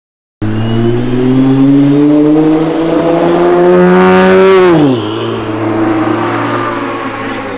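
Car engine accelerating hard, its note climbing steadily for about four seconds, then dropping sharply about five seconds in and settling to a steady lower drone.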